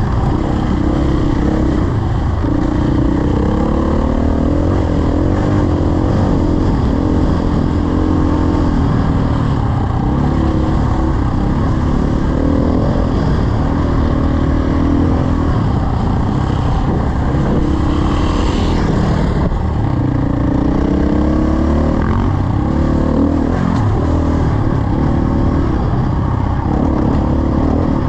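Dirt bike engine running under way, its pitch rising and falling as the throttle opens and closes, over a heavy low wind rumble on the microphone.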